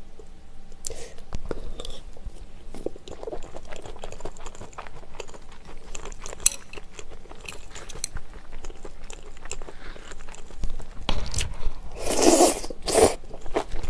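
Close-up eating sounds: a mouthful of egg fried rice with shrimp being chewed, with small wet mouth clicks. Louder crunchy bites come near the end.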